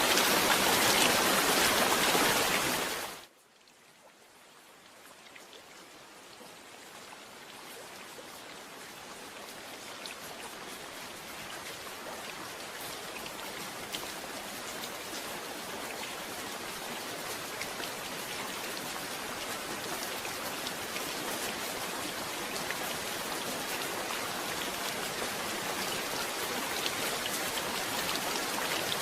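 Steady heavy rain that fades out abruptly about three seconds in, then slowly swells back up over the following twenty-odd seconds, with scattered drop ticks in it.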